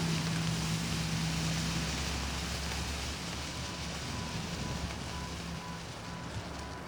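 Wind buffeting the microphone as an even hiss that slowly eases off, with a steady low hum underneath that drops away about three seconds in.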